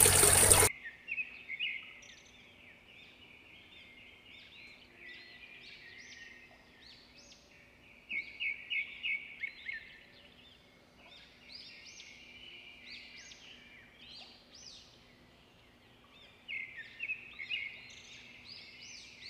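Birds chirping in runs of quick, short, high chirps, loudest about eight seconds in and again near the end, over a faint steady hum. Under a second in, the sound of running water cuts off abruptly.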